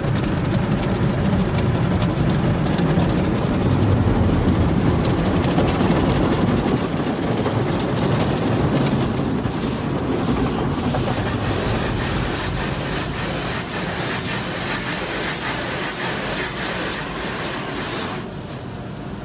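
Automatic car wash working over the car, heard from inside it: a steady rumbling wash noise that turns into more of a hiss about halfway through and drops a little in level near the end.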